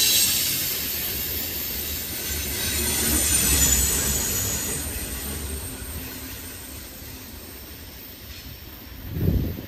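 Freight train cars rolling past, wheels rumbling with a faint high flange squeal, fading as the end of the train moves away. A brief low thump comes near the end.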